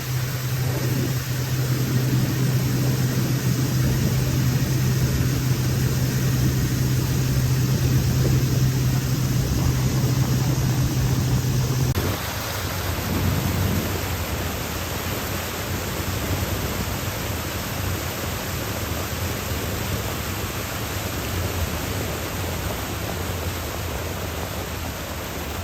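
A riverboat's outboard motor running steadily under a constant rush of noise. About halfway through, its hum drops to a lower pitch as the boat slows.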